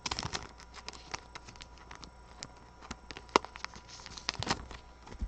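Trading cards being handled and flipped through one by one: a scatter of light clicks and ticks, thickest at the start and again near the end.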